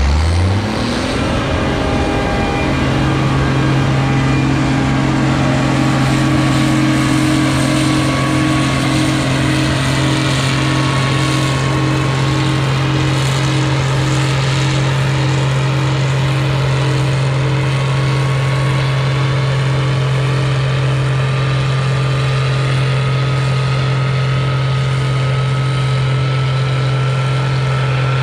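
A vehicle engine revs up over the first couple of seconds, then runs at a steady high speed, with a faint whine that slowly rises in pitch.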